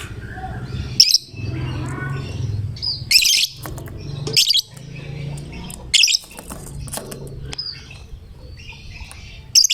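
Lovebird calling in loud, shrill chirping bursts, about five of them, with softer twittering in between. A low steady hum runs underneath.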